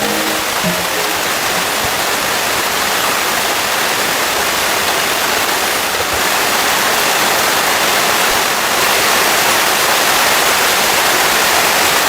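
Heavy rain pouring steadily, a loud, even hiss of falling water.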